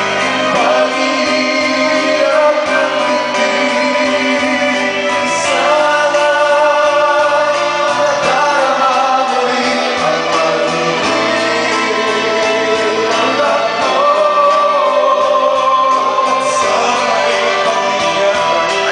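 A male-and-female duet: two voices singing a slow love song over instrumental backing.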